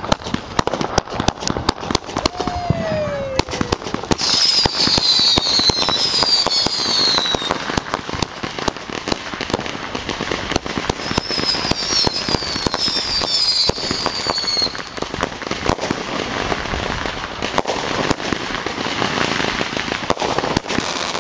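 Consumer fireworks going off: a dense run of rapid pops and crackles. Groups of high whistles falling in pitch come in about four seconds in and again about eleven seconds in.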